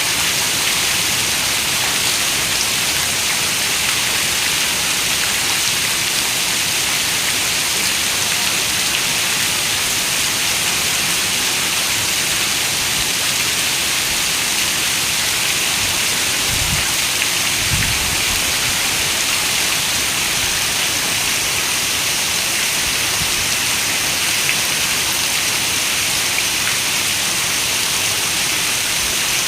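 Steady rain falling against a window, an even hiss. A little past halfway, two short low rumbles of distant thunder.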